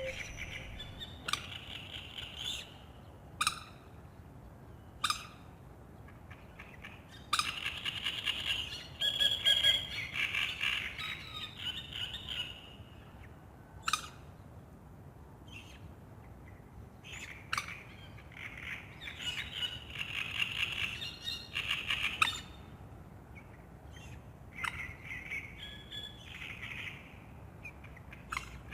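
Songbirds singing at dawn over a lake: phrases of high song that come and go, with short sharp chirps in between, over a faint steady background.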